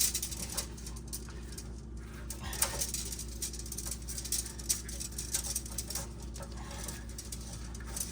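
Hand pipe cutters being worked: irregular clicks, scrapes and rattles of the tool handled up close, over a steady low hum.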